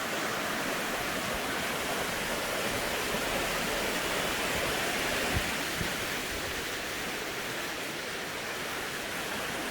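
Steady rushing of falling water from a waterfall, an even roar without breaks.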